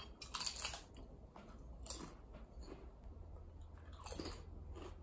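Crunchy food being chewed close to the microphone: a few separate crunches.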